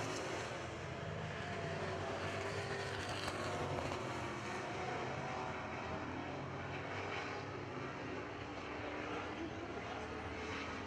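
A field of dirt-track Super Truck race engines running at speed together, a steady drone with no break.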